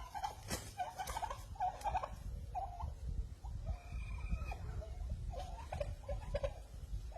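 Domestic turkeys calling, a run of short clucks and yelps one after another, over a low rumble.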